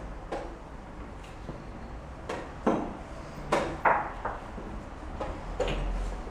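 Chess pieces knocked down on the board and the chess clock being pressed during a rapid game: a few sharp knocks in quick succession in the middle, then one or two more near the end, over a low steady hum.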